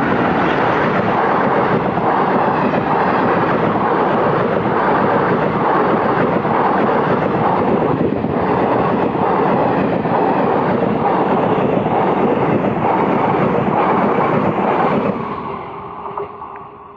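Intercity express train hauled by a WAP-4 electric locomotive passing at speed: a loud, steady rush of wheels on rails that dies away about fifteen seconds in.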